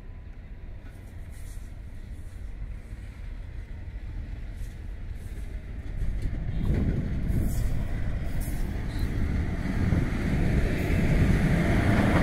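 A train approaching on the railway line, its rumble growing steadily louder, with a sharper rise in wheel noise about six seconds in.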